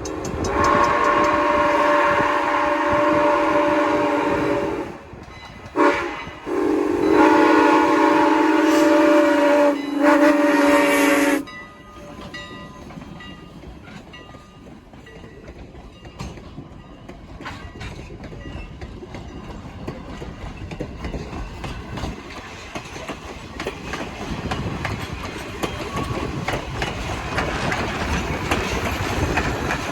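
A locomotive sounds a chord of steady tones in the grade-crossing pattern, long, long, short, long, ending sharply about eleven seconds in. The train then rolls by, its wheels clicking over the rail joints as the rumble grows louder toward the end.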